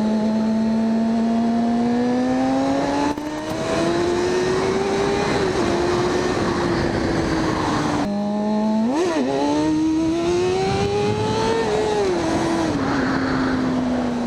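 Sport bike's inline-four engine accelerating hard, its pitch climbing steadily. Twice the sound breaks off abruptly, then comes a quick rev blip, another climb, and the pitch falls away as the bike slows near the end.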